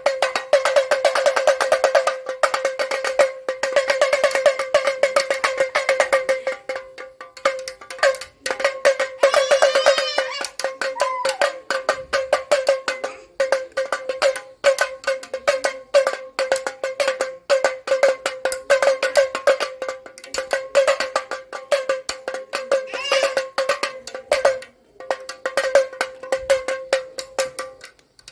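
Damaru (damroo) hand drum being twisted back and forth so its beaded cords strike the heads in rapid rattling beats over a steady ringing pitch, in runs broken by brief pauses.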